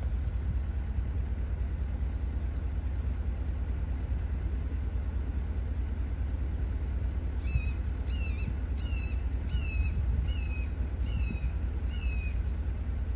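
A bird calling a run of about seven short, evenly spaced falling notes in the second half, over a steady low rumble.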